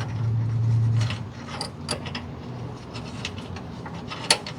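Hand ratchet wrench clicking irregularly as a suspension bolt is tightened by hand, with a louder click near the end. A steady low hum runs underneath and is strongest in the first second.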